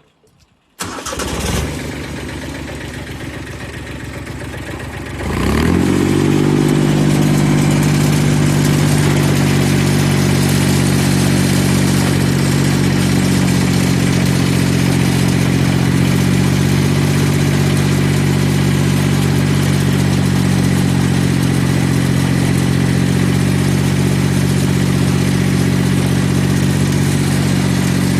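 Diesel engine of a Yanase 11-17HD snowblower being cranked by its starter for about four seconds, then catching and settling into a steady run.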